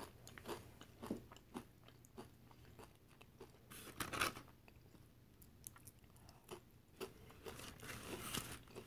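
Nacho tortilla chips being bitten and chewed: faint scattered crunches, the loudest about four seconds in and again near the end.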